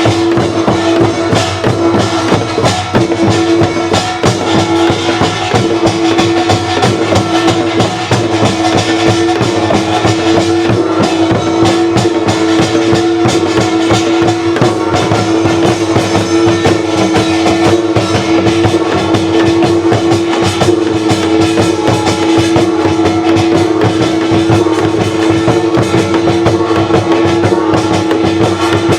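Live Korean traditional folk music: dense, fast percussion under one steady held tone.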